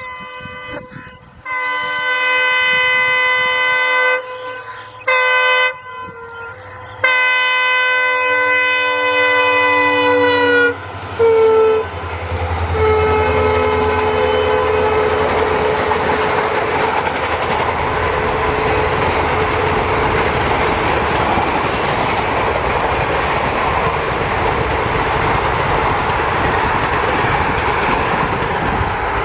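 Indian Railways diesel locomotive's horn sounding four blasts: a long one, a short one, a second long one that drops in pitch as the locomotive passes, and a brief last one. Then the engine's deep rumble goes by, followed by a long steady clatter of the express coaches' wheels over the rail joints as the train runs past at speed.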